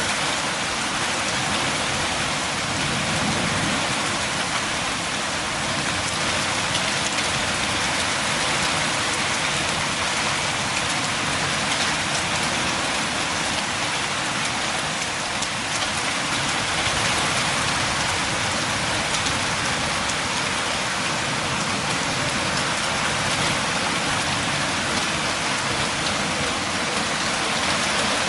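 Steady rain falling on a surface, an even patter of many drops with no breaks or thunder claps.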